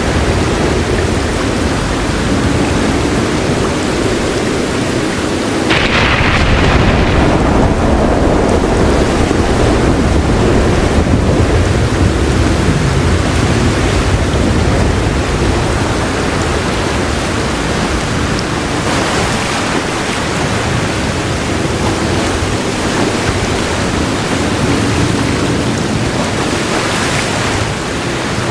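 Heavy rain pouring steadily with thunder rumbling underneath; a louder roll of thunder swells about six seconds in and fades over the next several seconds.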